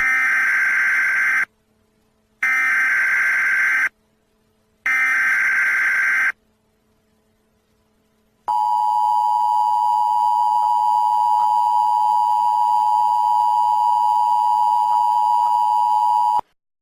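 Emergency Alert System warning tones for a severe thunderstorm warning: three short buzzy data bursts of about a second and a half each, a second apart, then a steady two-tone attention signal for about eight seconds that cuts off suddenly.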